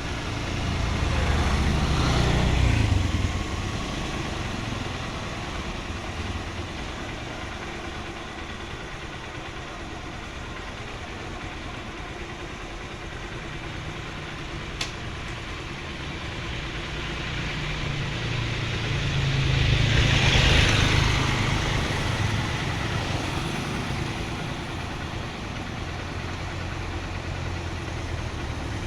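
Motor vehicle engines running steadily, swelling louder twice as vehicles pass, with a brief click about halfway through.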